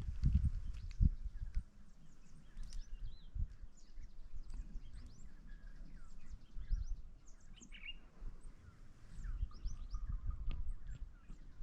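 Several small birds chirping and calling in quick, short notes. A few low rumbles on the microphone come in near the start.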